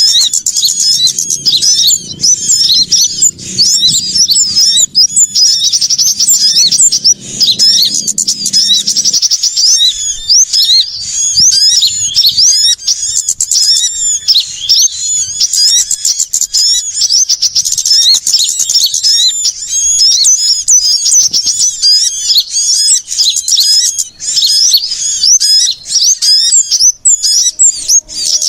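Many small songbirds calling at once: a dense, unbroken chatter of rapid high-pitched chirps and trills, overlapping without pause, as used in a bird-luring call recording. A faint low rumble runs underneath for the first third and cuts off suddenly.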